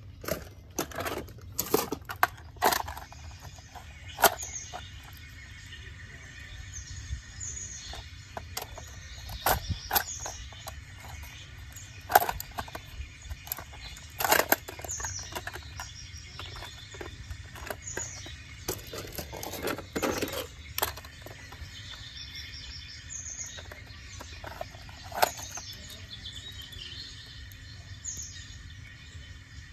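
Scattered sharp knocks and clicks at irregular intervals, with small birds chirping repeatedly in the background over a low steady rumble.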